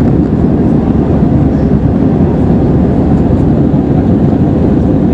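Steady, deep cabin noise inside an Airbus A320-214 in flight: the rush of air past the fuselage and the drone of its CFM56 engines, even throughout.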